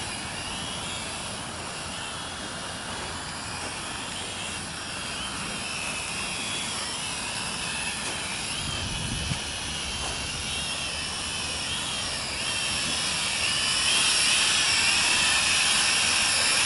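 Small quadcopter drone's propellers whining in flight, the pitch wavering as it is steered in gusty wind, growing louder about 14 seconds in. Wind buffets the microphone, with a gust about 9 seconds in.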